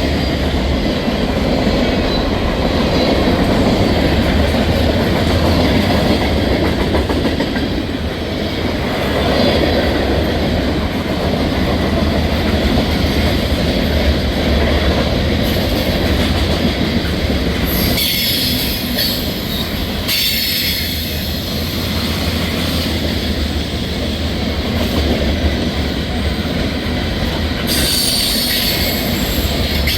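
Freight cars of a mixed freight train rolling past on a curve: a steady, loud rumble with wheel clatter, and high-pitched wheel-flange squeals breaking in about two-thirds through and again near the end.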